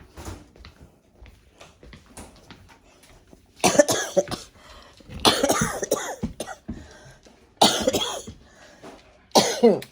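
A person coughing in four separate fits, each about half a second to a second long and a second or two apart.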